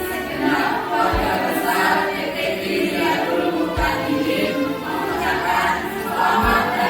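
A group of voices singing a song over musical backing, with a low drum hit about every two and a half seconds.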